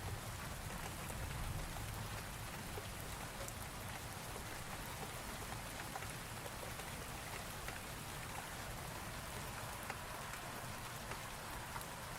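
Steady rain falling, an even hiss with scattered sharp drop ticks, from a thunderstorm ambience; a low rumble fades out in the first couple of seconds.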